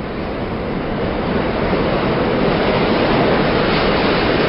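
Train running, a steady rushing rumble that grows gradually louder.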